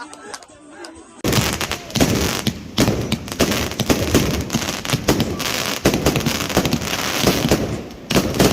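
Fireworks crackling: about a second in, a dense, rapid run of pops and cracks starts and keeps going.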